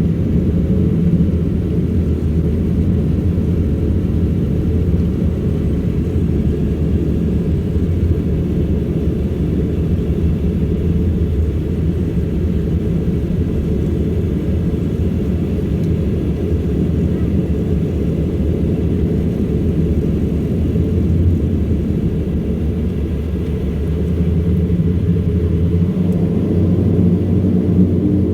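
Steady low drone of an Embraer EMB-120 Brasilia's twin Pratt & Whitney Canada PW118 turboprop engines and propellers, heard inside the cabin. It gets a little louder near the end.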